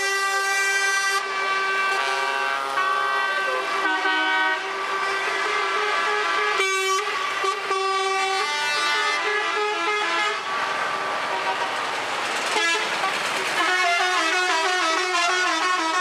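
Truck horns honking together: several sustained horn blasts of different pitches overlapping, and from about three-quarters of the way through a horn sounding a quick run of changing notes.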